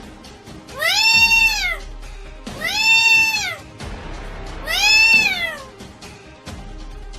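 Pet black-capped lory giving three loud drawn-out calls about two seconds apart, each about a second long and rising then falling in pitch.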